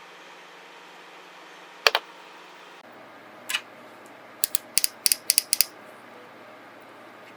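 Small hard objects clicking and tapping as nail-art tools and products are handled: a quick double click about two seconds in, a single click a little later, then a fast run of about nine clicks.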